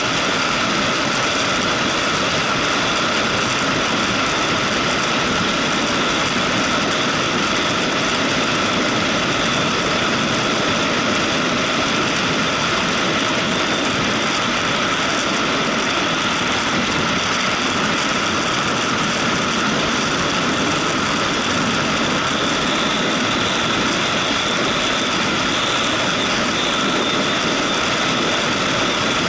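Motorcycle running steadily while being ridden, its engine mixed with road and wind noise, with no change in pace or level.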